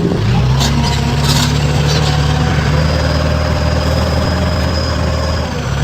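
Heavy construction machine's engine running steadily at a low, even note, with two short sharp clicks in the first second and a half and a faint high whine through the middle.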